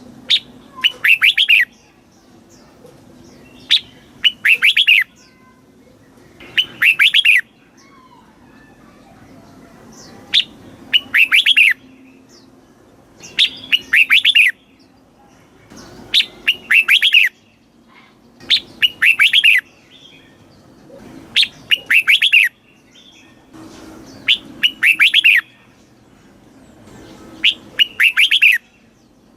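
Red-whiskered bulbul singing its short, rich whistled song phrase over and over, about ten times, one phrase every two to three seconds. This is the kind of song recording played to caged bulbuls to teach them or rouse them to sing.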